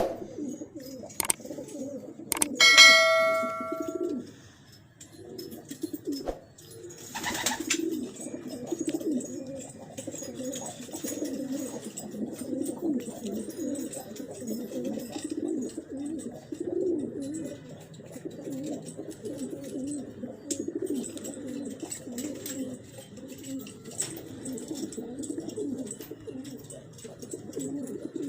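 Domestic pigeons cooing continuously, several birds overlapping. Near the start a single metallic ring, the loudest sound, dies away over about a second and a half, and about seven seconds in there is a brief rush of noise.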